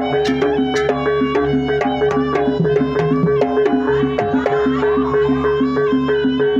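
Jaranan gamelan accompaniment: a reedy wind melody moving in steps over a steady held tone, with a percussion pattern repeating evenly about three to four times a second.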